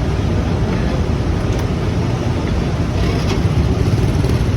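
Train running, a steady loud low rumble.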